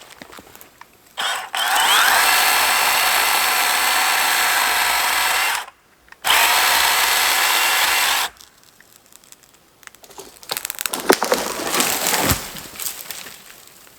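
Battery-powered saw cutting a dead standing pine: the motor spins up about a second in and runs steadily for about four seconds, stops briefly, then runs again for about two seconds. A few seconds of irregular crackling and snapping follow near the end.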